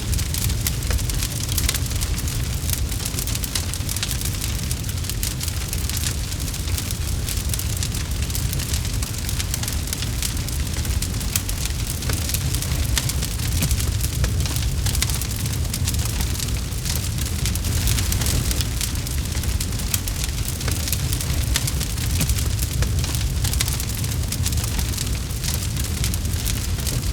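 Campfire burning steadily, with dense rapid crackles and pops over a low rumble of the flames.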